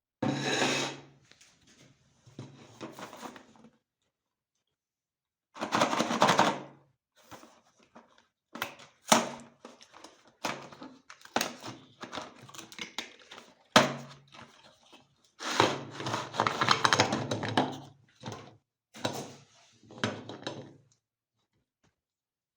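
Meat grinder running in short bursts, grinding Oreo cookies, with sharp clicks and knocks between the bursts.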